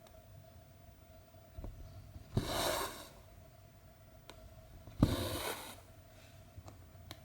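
Cotton embroidery thread pulled through 14-count cross-stitch canvas twice, about two and a half seconds apart. Each pull is a short swish that starts sharply. Faint needle ticks fall between the pulls, over a faint steady hum.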